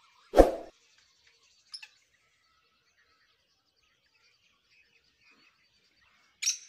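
A single sharp thump about half a second in, with faint bird chirps in the background. Near the end a black francolin's loud, harsh, grating call begins.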